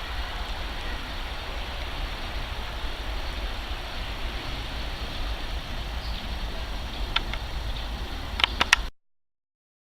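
Steady outdoor background rumble and hiss, with a few sharp clicks near the end. The sound cuts off abruptly about nine seconds in.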